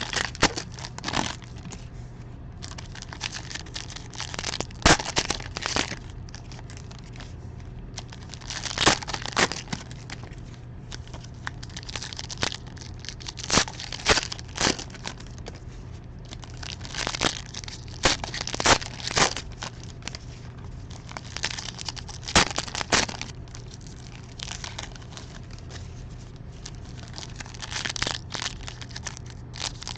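Baseball card pack wrappers being torn open and crinkled, in irregular bursts of crinkling and tearing with sharp clicks of cards being handled, over a steady low hum.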